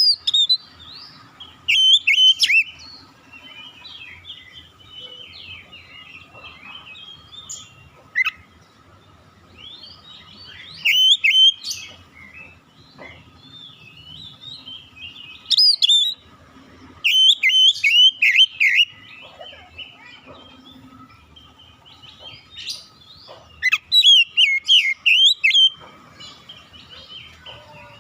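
Oriental magpie-robin (kacer) singing: loud bursts of rapid, varied whistled notes every few seconds, with quieter twittering between them.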